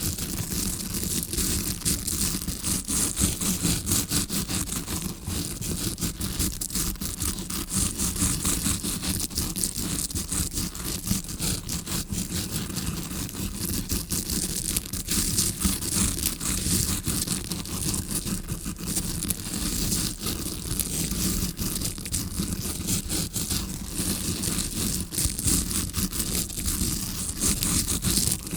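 Fake ear-cleaning sound from a tawashi scrubbing-brush ear pick, made to sound as if heard from the eardrum side: stiff bristles scratching and rustling in rapid, continuous strokes.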